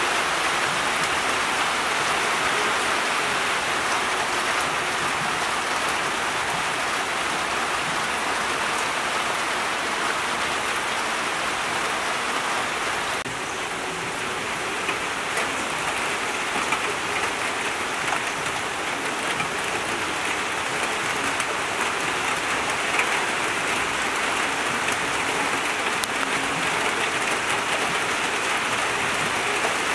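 Steady rain falling, an even hiss with pattering drops; the sound shifts slightly and dips a little about 13 seconds in, with a few louder drop hits after that.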